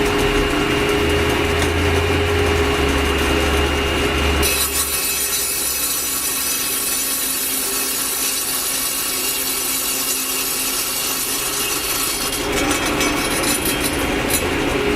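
Power saw with a diamond blade running with a steady whine, then cutting into a fire brick from about four seconds in, giving a hissing grind for about eight seconds. Near the end the blade comes free and the saw runs on unloaded.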